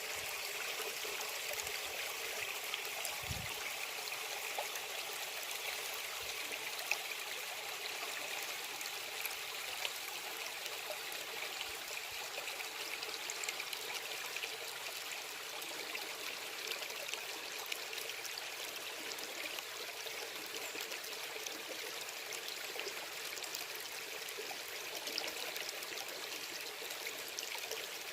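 Small stream babbling steadily: an even rush of water with fine trickling splashes throughout.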